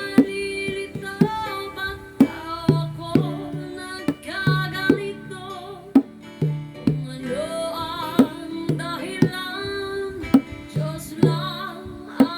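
A voice singing a song over acoustic guitar, with sharp bongo strikes throughout.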